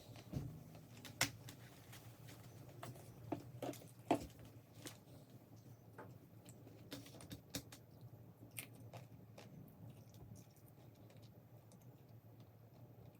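Faint chewing with scattered soft clicks and crunches, irregular and a second or so apart, while eating KFC fried chicken; the sharpest come a little over a second in and about four seconds in.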